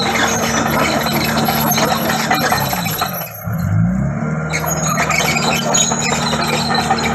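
Komatsu D31PX crawler bulldozer's diesel engine running under load, with high thin squeaks over the engine. About three seconds in, the engine speed sags and then climbs back.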